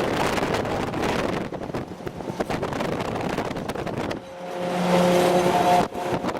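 Military convoy vehicle on the move, a dense steady noise of engine, road and wind. Near the end a steady pitched tone sounds for about a second and a half and stops suddenly.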